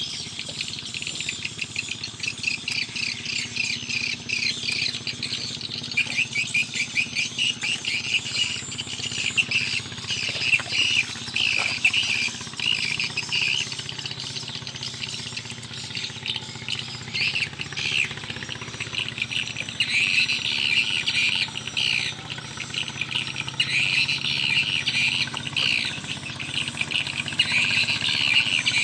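Birds chirping and calling in quick repeated notes, in several louder bouts.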